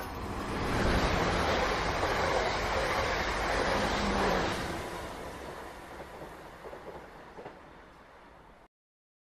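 Train running along the rails. It is loudest for the first few seconds, then fades away with a few faint clicks and cuts off near the end.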